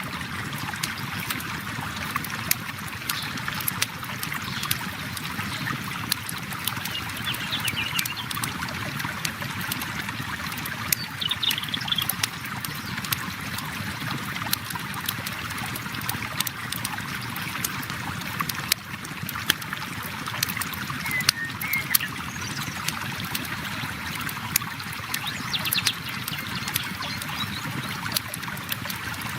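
River water flowing steadily, with a wood campfire crackling over it in scattered sharp pops and snaps.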